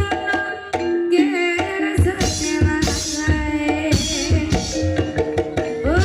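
Live Banyumasan gamelan accompaniment for ebeg dance: hand-played kendang drum strokes in a steady rhythm over ringing metallophone notes.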